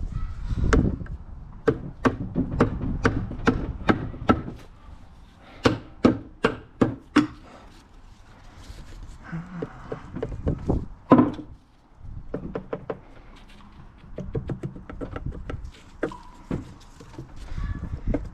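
Repeated sharp knocks, two or three a second in several runs, as a stuck side cover on a Honda CBR600RR engine is tapped and worked loose against the gasket sealant holding it on. The loudest knock comes about eleven seconds in.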